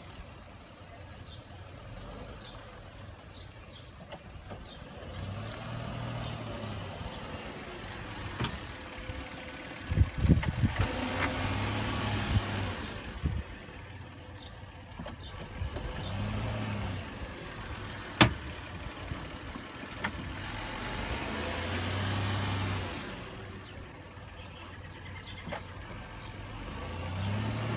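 Car creeping along and braking repeatedly, its engine and rolling noise swelling and fading, with a few sharp pops from the front driver's-side wheel on braking; one pop about two-thirds of the way through is much louder than the rest.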